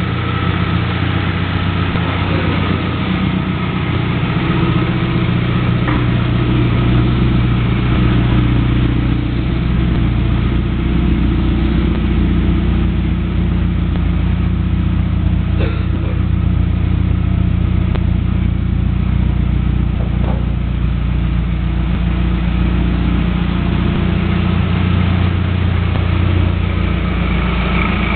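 Supercharged Pontiac Solstice engine idling steadily on its first run after the supercharger install, with the idle shifting slightly a few times.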